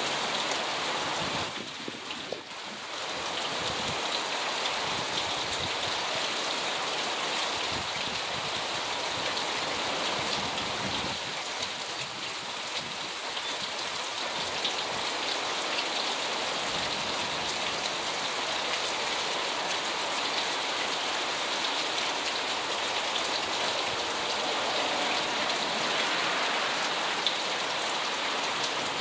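Heavy rain pouring steadily, with a short dip in loudness about two seconds in.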